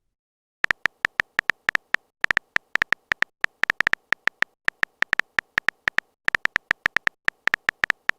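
Phone on-screen keyboard typing sound effect: many quick, short tapping clicks in uneven runs, starting about half a second in.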